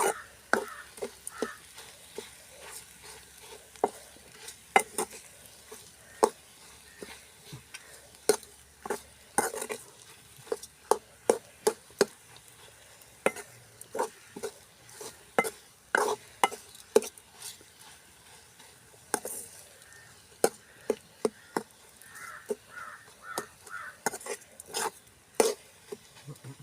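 A spoon or spatula scraping and knocking against a pan in irregular strokes, stirring and mashing boiled potato into a fried egg and spice mixture.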